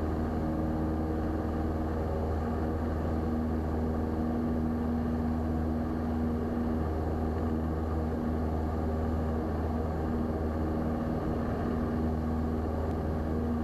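Piper Tri-Pacer's four-cylinder piston engine and propeller droning steadily at climb power just after takeoff.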